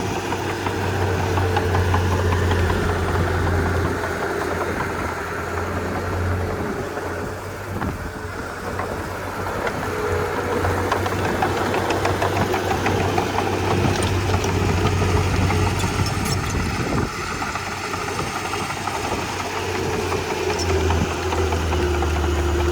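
Komatsu D31P crawler bulldozer's diesel engine running steadily with a low drone. Its note changes a few times: briefly about 8 and 17 seconds in, and again near the end.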